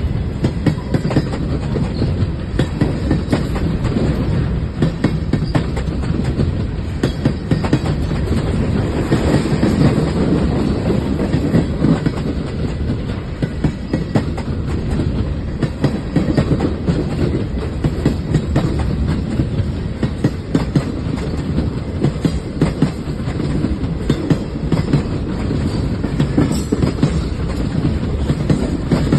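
Freight train cars rolling steadily past: a continuous low rumble with constant clickety-clack from the wheels over the rail joints.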